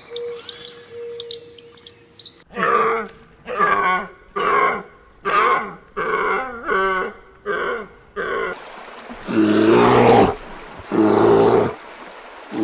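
Animal calls: bird chirping at first, then a run of about seven short pitched calls, then two longer, louder, rough calls in the second half.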